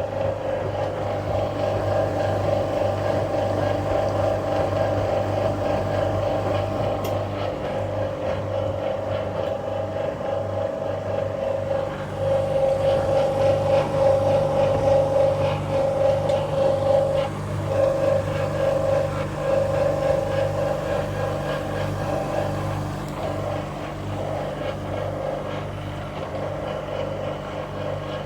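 1966 Bendix LA automatic washing machine draining its wash water: a steady mains-motor hum under a rushing, churning water sound that swells for a while midway and then eases back.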